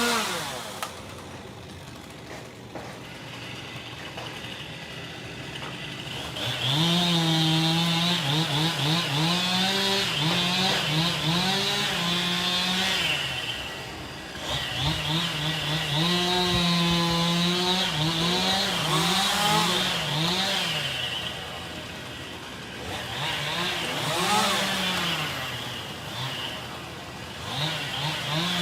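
Chainsaw idling, then running at high throttle in several long stretches as it cuts wood, easing back down to a lower speed between them. The engine pitch wavers up and down under load.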